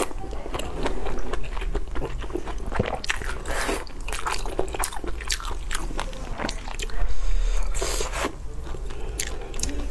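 Close-up eating sounds: a mouthful being chewed, with many small wet mouth clicks and smacks, and a louder, wetter stretch about seven seconds in.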